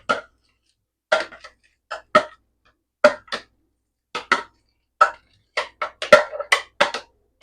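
About a dozen and a half sharp knocks, often in quick pairs: the food processor bowl or a utensil rapped against a container to shake thick recao paste out of it.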